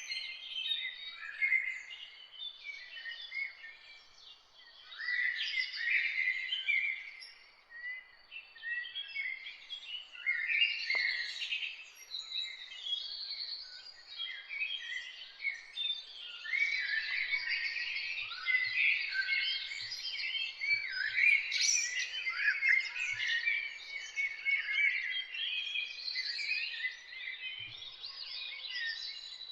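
Several songbirds singing and chirping at once, a dense, overlapping chorus of quick chirps and trills, busiest in the second half.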